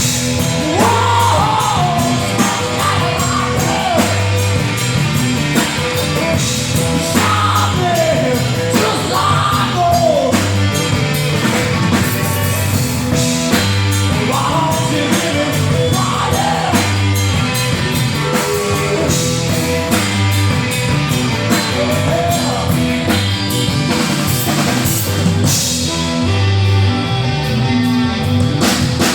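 A rock band playing a repeating blues riff on drums, bass and electric guitar, with a lead voice wailing in short gliding phrases that come and go.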